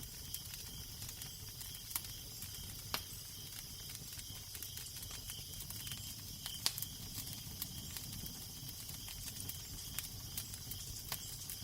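Crackling fire with scattered sharp pops and snaps, over a steady low wind rumble and hiss.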